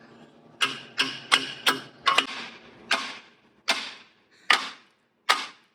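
Ten hammer blows on an old waste pipe, being struck to break it apart: a quick run of strikes at first, then slower single blows about one a second.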